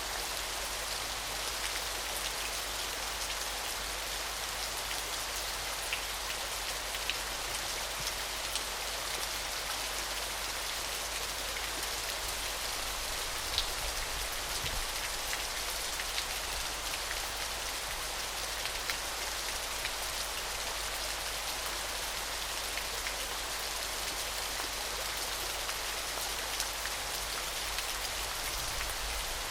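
Small waterfall splashing: a steady, even hiss of falling water, with scattered drip-like ticks from individual droplets.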